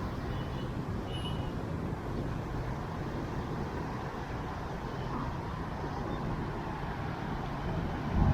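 Steady noise of city street traffic, with a brief low thump near the end.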